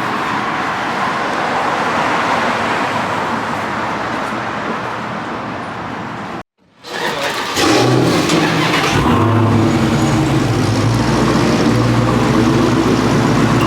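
Road and tyre noise from a car on the move. After a short cut about six and a half seconds in, a car engine runs loudly with a steady low note.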